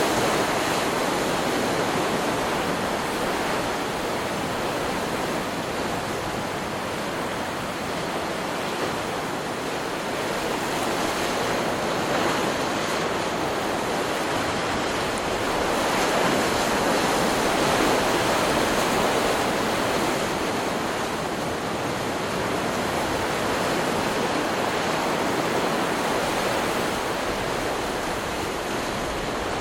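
Ocean surf: waves breaking and washing ashore in a continuous rush that slowly swells and eases every few seconds.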